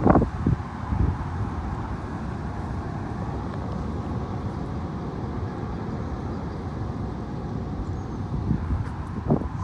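High wind blowing steadily, with gusts buffeting the microphone in low rumbles about a second in and again near the end.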